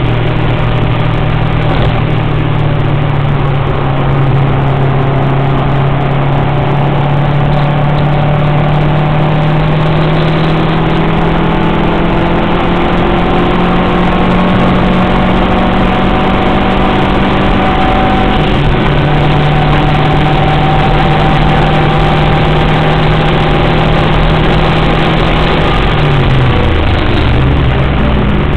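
Subaru WRX's turbocharged flat-four engine pulling hard on track, its revs climbing slowly over a long stretch and dipping once about two thirds through, like an upshift. Near the end the revs fall and waver as the car slows for a corner, all over heavy wind and road noise.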